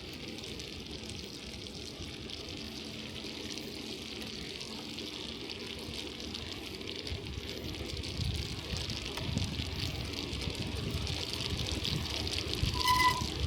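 Bicycle tyres hissing over a wet, slushy snow-covered road, with a low rumble that builds in the second half. Near the end comes a short, high beep.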